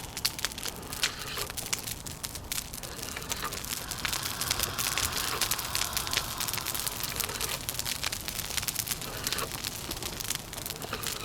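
Wood fire crackling, with many irregular sharp pops and snaps over a steady background rush of wind.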